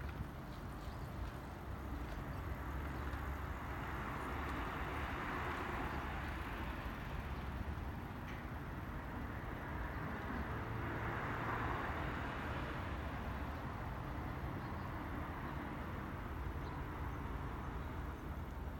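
An electric train running past: a steady rumble of wheels on track that swells twice, about four seconds in and again about ten seconds in.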